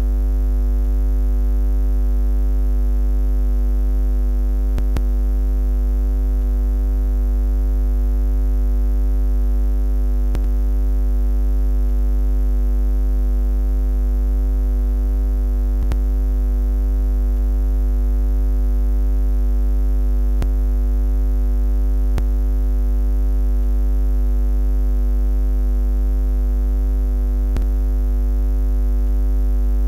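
Steady low electronic buzz: a constant deep hum with several fixed overtones above it, unchanging throughout, with a few faint clicks here and there.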